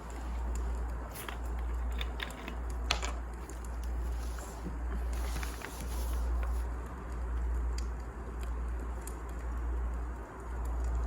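Wood fire burning in a fireplace: irregular crackles and pops over a steady low rumble, with a sharper pop about three seconds in and a stretch of hissing from about four to six seconds.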